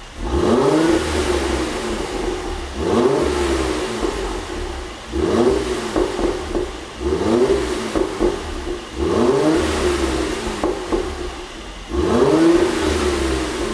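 Mercedes-AMG GLC 43's twin-turbo V6 blipped about six times, roughly every two seconds, with each rev rising and falling. As the revs fall, the exhaust pops and crackles from its pop-and-crackle tune.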